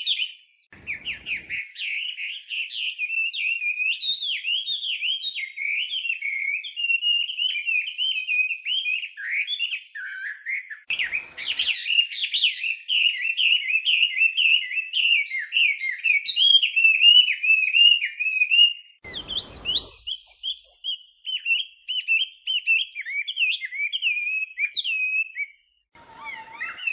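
Chinese hwamei (melodious laughingthrush) singing a long, fast, varied warbling song of quick rising and falling whistled notes, with a few short pauses. Brief low bumps come about a second in, then around the middle, and again near the end.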